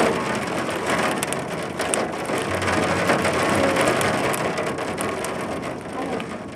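Rain pelting a hard surface: a dense, rapid patter of sharp impacts.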